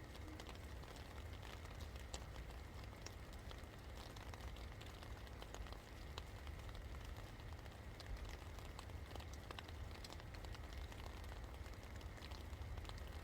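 Steady rain falling, with many separate drops ticking on a hard surface, over a faint low rumble.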